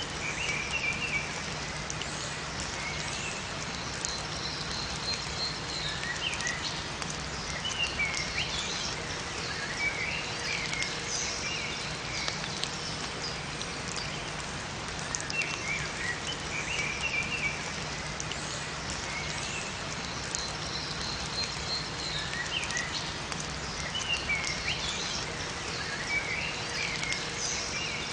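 Steady rain falling in a forest, with small songbirds chirping in short bursts of quick, pitch-bending notes every few seconds.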